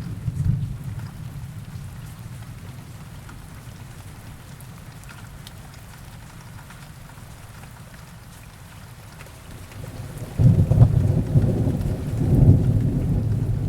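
Heavy rain with thunder. A low rumble dies away over the first couple of seconds, leaving steady rain, then a loud low thunder rumble breaks in suddenly about ten seconds in and keeps rolling.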